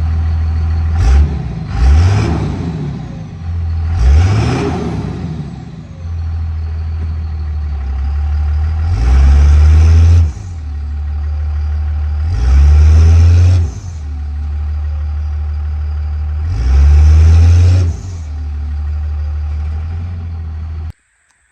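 A 2001 Cummins 5.9-litre 24-valve VP44 turbo diesel idling with a deep, steady drone through a new 4-inch exhaust that splits into dual 5-inch stacks. It is blipped quickly a few times early on, then revved and held three times for about a second and a half each.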